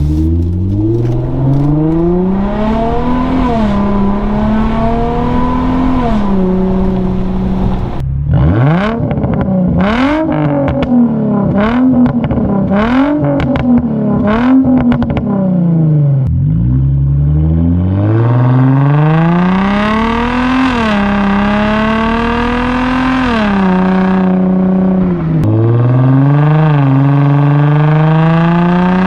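Infiniti G35's 3.5-litre V6 through a muffler-deleted exhaust, pulling up through the gears with the pitch rising and dropping at each shift. In the middle comes a run of about six quick revs up and down.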